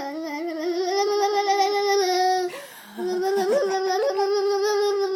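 A young child holds a long, steady high-pitched 'aah' while fingers tap under the chin, making the voice waver. The note breaks off about two and a half seconds in and is taken up again as a second long held note.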